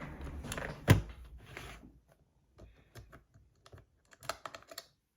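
Hands rummaging for and handling small tools: a rustling, scuffling clatter with one loud knock about a second in, then a string of small, light clicks and taps.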